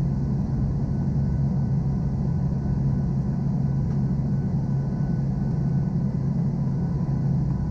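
Engines of a NOAA Hurricane Hunter aircraft running steadily in flight: an even, deep hum with faint steady high whines above it.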